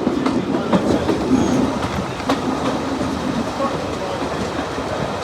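Passenger train running on the rails, a steady rumble with a few sharp clicks of the wheels over rail joints.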